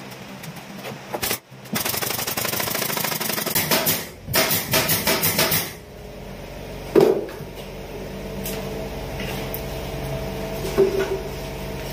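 A power tool running in two bursts of rapid knocking, then a steady mechanical hum with a single sharp knock.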